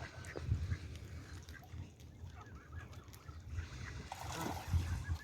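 A flock of waterfowl calling, with quick runs of short repeated calls about two seconds in and again near the end, as the birds crowd in for thrown bread. Wind rumbles on the microphone.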